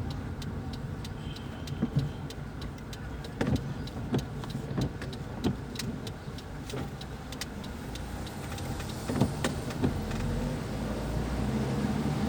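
A car driving slowly, with a steady engine and road rumble and a regular light ticking at about two ticks a second.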